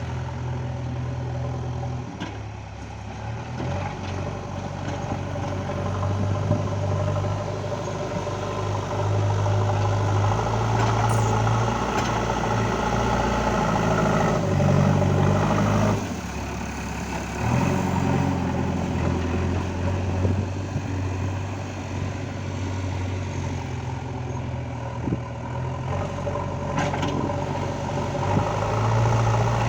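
JCB 3DX backhoe loader's diesel engine running, its pitch and level shifting up and down as the machine is worked, with a brief drop a little past halfway.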